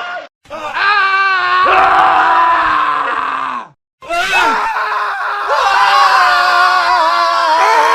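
Several men screaming one after another in a montage of separate clips, each scream a long, wavering, strained cry. Two brief silent cuts split it, about a third of a second in and just before the four-second mark.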